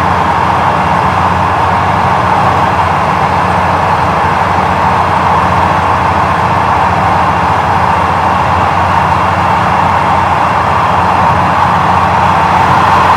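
A diesel engine running steadily: a low, even hum with a strong mid-pitched drone over it, growing a little louder near the end.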